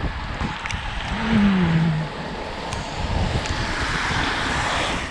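Wind buffeting the microphone of a moving bicycle, over a steady rush of road and traffic noise. A short voice-like sound falls in pitch about a second in.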